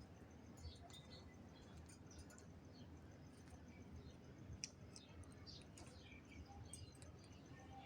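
Near silence with faint scattered clicks and soft high chirps from a parrot, and one sharper click about halfway through.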